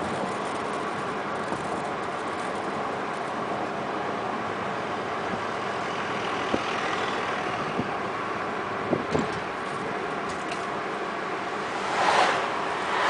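Steady road and engine noise of a car driving along a road, with two brief louder whooshes swelling and fading near the end.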